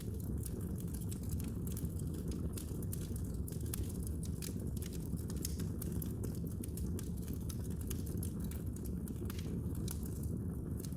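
Fire crackling in a fireplace: frequent, irregular sharp pops and snaps over a steady low rushing noise.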